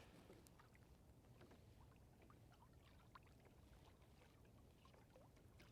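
Near silence: faint outdoor background on the water, with a few scattered small ticks.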